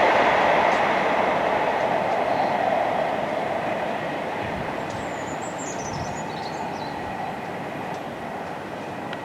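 Train running past and receding, its rumble fading steadily.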